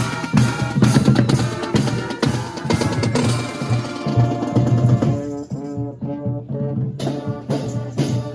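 Procession band drums, bass and snare, beating a steady march rhythm. In the second half, held notes from a pitched instrument step through a tune over the beat.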